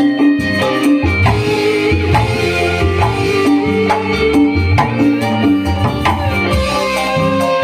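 Dangdut koplo band playing an instrumental passage: busy kendang hand-drum rhythm over a bass line, with sustained melody instruments on top.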